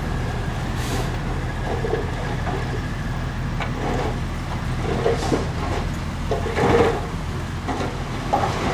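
Heavy earthmoving machine's diesel engine running steadily, with irregular clanks and rattles over it, the loudest about seven seconds in.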